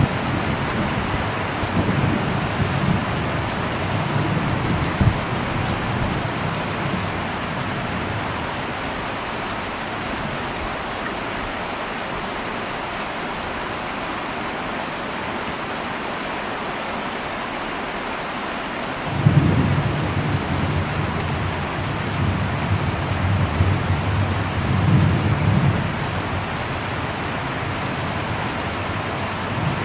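Heavy rain on an old metal roof, a steady dense hiss, with thunder: a low rumble dies away over the first few seconds, then about two-thirds of the way in a sudden crack of thunder rolls on for several seconds.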